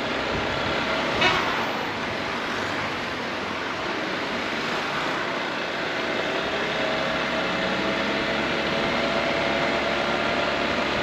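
Riding noise from a Honda ADV 350 scooter: its single-cylinder engine running under steady road and wind noise. A short, sharp sound comes about a second in.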